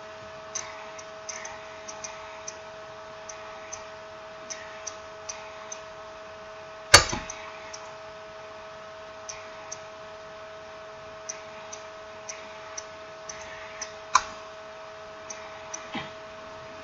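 Small irregular clicks and taps of a smartphone's parts and tools being handled during reassembly, with a sharper click about seven seconds in and another near fourteen seconds. A steady hum runs underneath.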